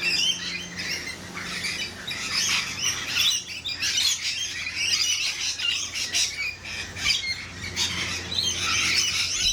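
A flock of birds squawking and chirping, many short calls overlapping without a break.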